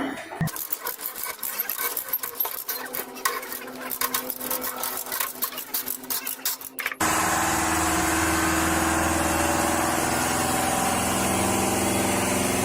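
Heavy machinery at work: about six seconds of rapid, irregular metallic clicking and rattling. Then, after an abrupt change, a heavy diesel engine running steadily with a low drone.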